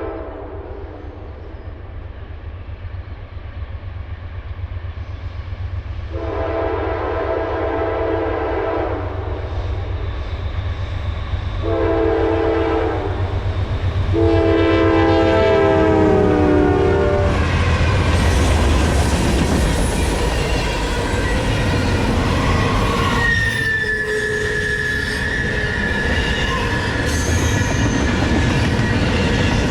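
A Norfolk Southern GE Dash 9 locomotive's K5LA multi-chime horn blowing as the train approaches: the end of one blast, then a long blast, a short one, and another long one that drops in pitch as the locomotive passes. After it comes the loud rumble of the freight train rolling by, wheels on rail, with a high wheel squeal a little past the middle.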